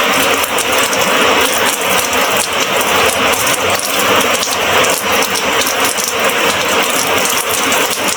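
Steady monsoon rain falling, a dense rapid patter of drops at an even level.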